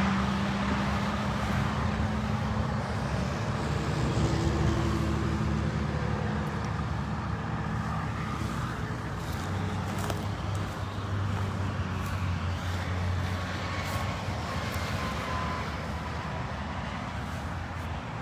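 Heavy vehicle engines running with steady road traffic noise, a low engine hum that gradually fades.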